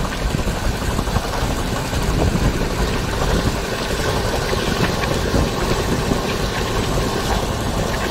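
Passenger train running at speed: the steady rumble and rattle of the coach's wheels on the track, with a few faint clicks.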